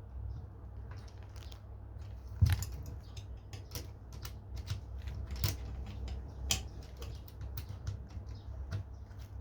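Irregular small clicks and taps of a jigsaw blade and its blade holder being handled and worked by hand while the blade is fitted, with a sharper knock about two and a half seconds in. The saw is not running.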